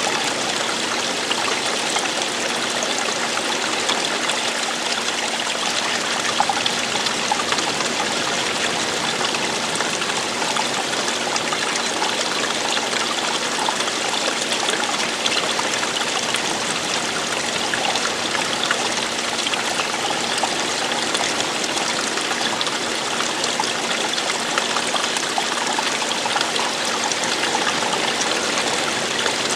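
Running water falling and flowing in a steady, unbroken rush with small splashes, like a small stream or cascade.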